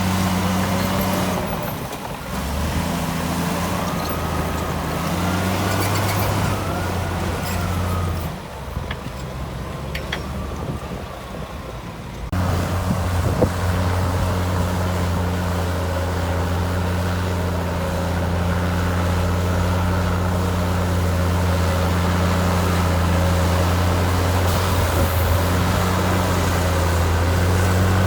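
Heavy diesel engine of earthmoving machinery running steadily with a low drone, with a wavering whine over it for the first part. About twelve seconds in the engine sound jumps abruptly louder, and a single clank follows a second later.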